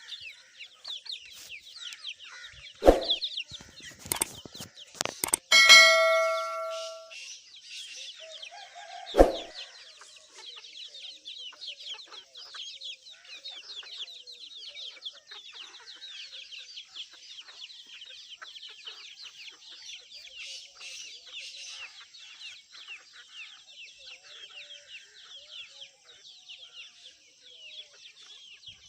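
A colony of bats squeaking and chattering continuously in dense, high-pitched calls. Two sharp knocks come about 3 and 9 seconds in, and a metallic clang rings out for about a second just before 6 seconds.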